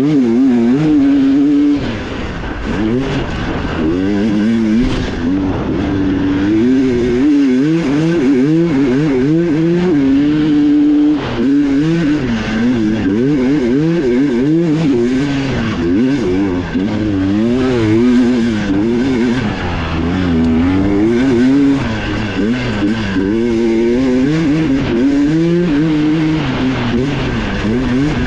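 Dirt bike engine under hard riding on a trail, its revs rising and falling constantly as the throttle is worked and gears change.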